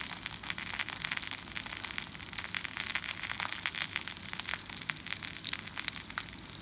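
Potato slices and eggs frying in a non-stick pan, a steady sizzle with dense, irregular crackling.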